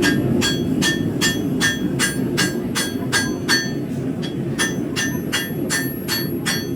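Blacksmith's hammer striking steel on an anvil, ringing blows at about three a second with a brief pause a little over halfway through, over a steady low rumble.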